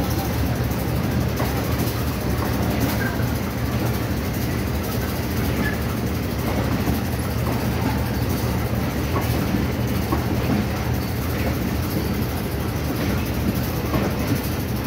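Pakistan Railways passenger coaches rolling past as the train pulls out: a steady rumble of wheels on the track with occasional clicks.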